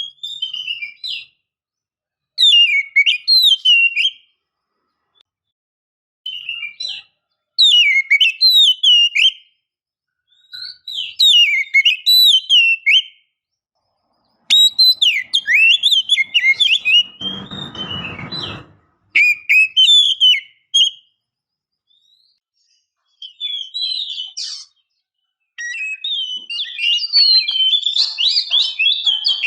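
Female oriental magpie-robin singing in short bouts of sweeping, whistled phrases with brief pauses between them, turning into denser chattering near the end; a short rough noise comes through about halfway. This calling is used to lure and stir male magpie-robins into song.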